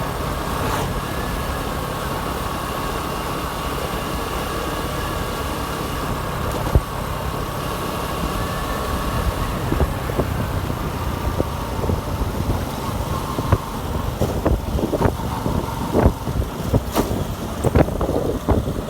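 Motorcycle engine running at a steady pace while riding, with wind noise on the microphone. About two-thirds of the way through, the engine tone falls away and a string of short knocks and buffets takes over, the bike jolting over the road or wind hitting the mic.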